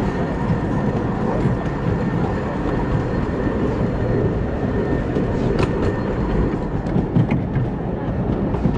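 Steady rumble of a 15-inch-gauge miniature railway's cars rolling along the track, with a few sharp clicks from the wheels over the rails partway through.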